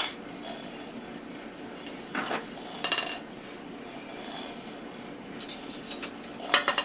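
Dishes and cutlery in an open dishwasher rack clinking and rattling as small children handle them. There are a few separate clinks, then a quicker run of clinks near the end.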